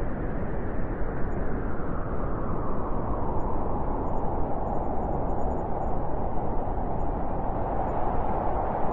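Blizzard wind blowing steadily in a dense rush of noise, with a howling tone that settles lower and grows stronger about halfway through.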